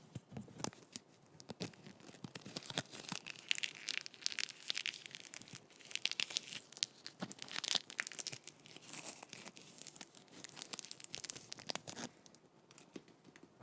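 Sticky tape on a microphone being pressed down and peeled off: irregular sticky crackling and clicks, with short tearing rasps that come in spells.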